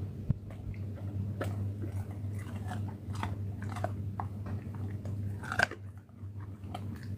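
An animal chewing and crunching food, with irregular sharp crunches over a steady low hum.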